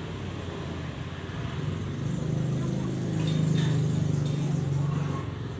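An engine running with a steady low hum that grows louder from about two seconds in and eases off again near the end.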